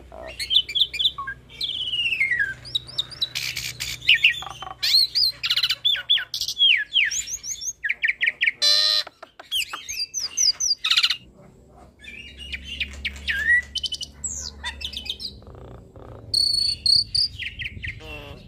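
Hybrid starling (Nias hill myna crossed with Asian pied starling) singing a fast, varied song packed with mimicked calls: clear whistles, quick rising and falling notes and harsh rasping chatter, thinning out for a few seconds after the middle before picking up again near the end.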